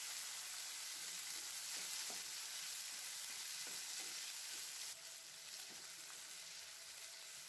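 Cut tomatoes, dried red chillies and garlic sizzling in sesame oil in a nonstick frying pan, stirred with a wooden spatula that scrapes the pan every so often. The sizzle drops a little about five seconds in.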